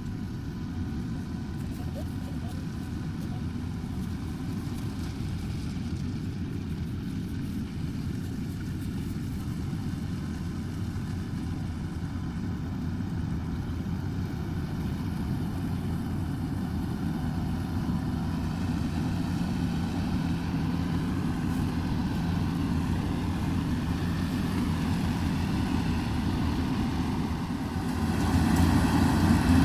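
Engines of harvest machinery running steadily in a rice field, swelling louder near the end.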